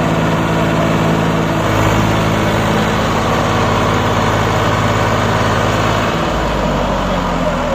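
Swaraj 744 FE tractor's diesel engine running, its note stepping up a little under two seconds in and dropping back about six seconds in, as it works to haul a loaded sugarcane trolley through mud.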